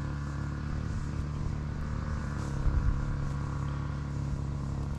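A lawnmower engine running with a steady hum, with a few soft rustles a little past halfway.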